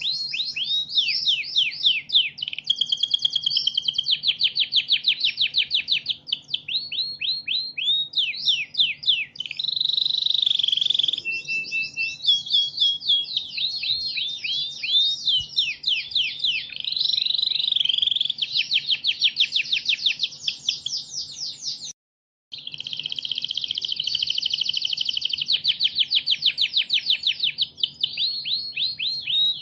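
A songbird singing continuously in long, rapid runs of high, falling whistled notes, several a second, with a brief break about 22 seconds in.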